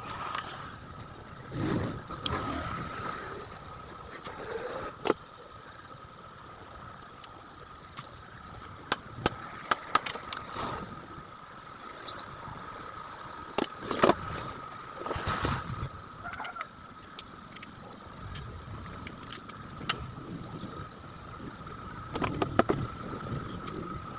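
Scattered sharp clicks, knocks and short rustling bursts from handling electric fan parts during a repair, over a steady high-pitched whine.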